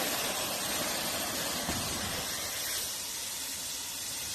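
Aircraft emergency evacuation slide inflating: a steady, rushing hiss of gas, easing a little about three seconds in.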